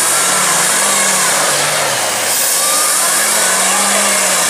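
Monster truck engines revving hard under load in a tug of war, the pitch rising and falling twice, over a loud steady hiss.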